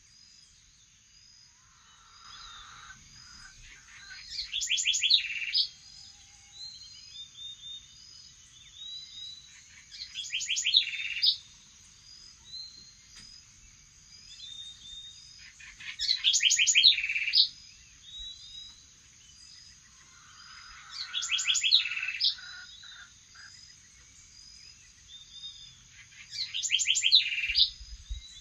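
Morning birdsong: one bird repeats a loud, fast song phrase about every five to six seconds, with softer chirps from other birds in between.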